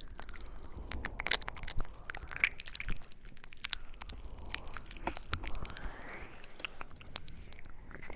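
Close-miked ASMR mouth sounds: many irregular wet clicks and smacks of the lips and tongue.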